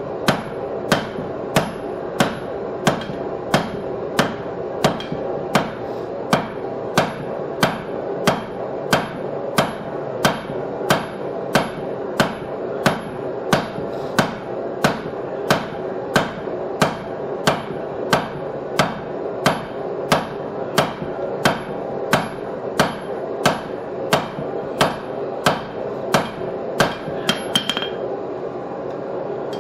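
Hand hammer striking hot steel on an anvil in a steady rhythm, about one and a half blows a second, each blow with a faint high ring, drawing the steel out thinner. The blows stop near the end. A steady drone runs underneath.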